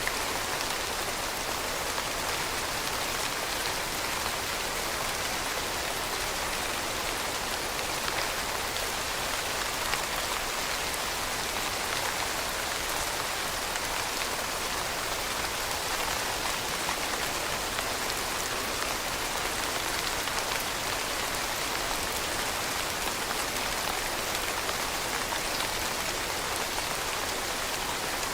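Steady rainfall, a dense even hiss of drops falling on surfaces with faint individual drop ticks throughout.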